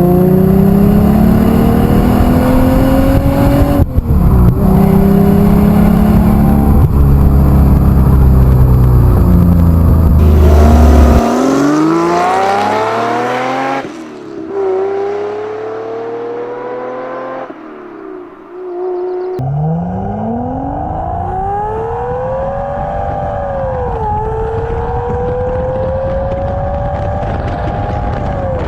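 Jaguar V12 engine and exhaust under hard acceleration, the pitch climbing through the revs and falling back at each gear change, several times over. It is loudest in the first third.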